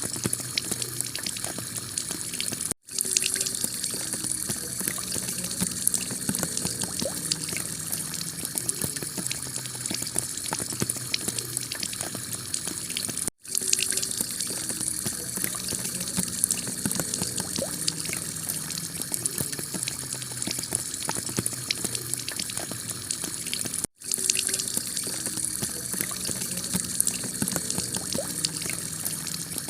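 Heavy rain pelting a tiled roof: a steady hiss thick with the ticks of single drops. The sound cuts out for an instant three times, evenly spaced, where the recording loops.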